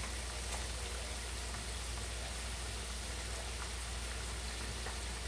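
Food frying in hot oil: a steady sizzle with a few faint crackles.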